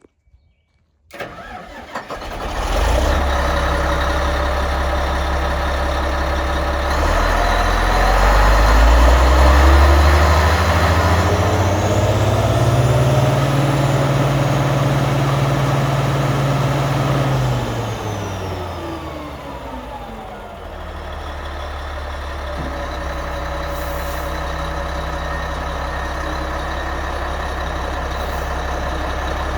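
Komatsu HD325-6 haul truck's diesel engine started: a brief crank, then it catches about two seconds in and settles running. Its revs climb from about seven seconds in, hold high for several seconds, then fall back to a steady idle.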